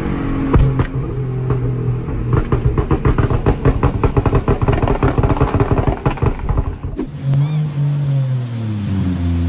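Loud modified car exhaust: an engine running with rapid popping and crackling from the exhaust for several seconds. About seven seconds in it cuts to another engine whose revs drop and then climb again.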